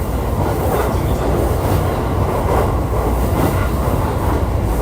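JR East E531 series electric multiple unit running on the Joban Line, heard from inside the car: a steady low rumble of wheels on rail with light clacks about once a second.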